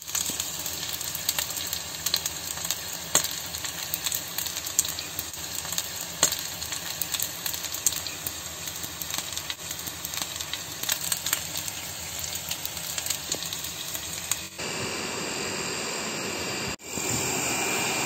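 Momos pan-frying in oil on a flat griddle, sizzling with frequent small crackles and pops. About fourteen and a half seconds in, the sound switches abruptly to a steadier, even hiss.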